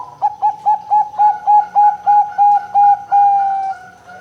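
Zebra dove (perkutut) song: a rapid run of about ten short, clipped coos, roughly four a second, ending in one longer drawn-out coo that fades.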